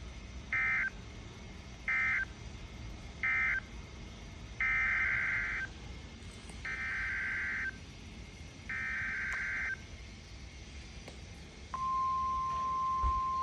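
NOAA Weather Radio SAME digital data bursts: three short end-of-message bursts, then three longer header bursts announcing the next alert. Near the end the steady 1050 Hz warning alarm tone starts, signalling a warning-level alert.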